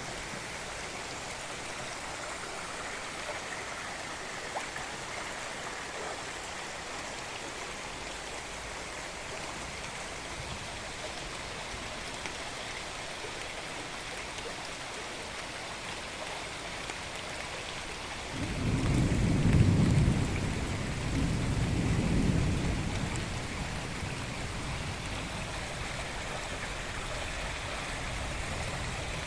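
Steady hiss of rain and flowing river water, with a roll of thunder about two-thirds of the way through: a low rumble that swells twice and then fades away.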